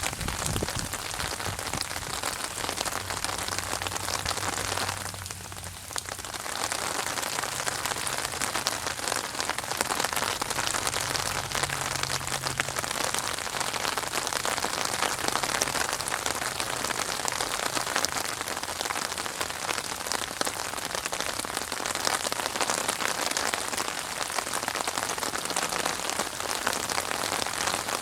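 Steady rain falling and pattering on surfaces, a dense even hiss that briefly drops away about five seconds in before resuming.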